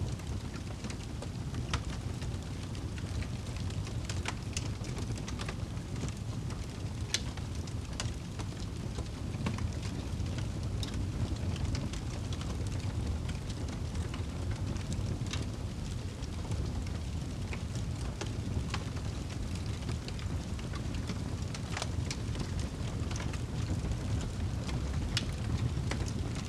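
Wood fire crackling with scattered, irregular sharp pops over a steady low rumble of wind.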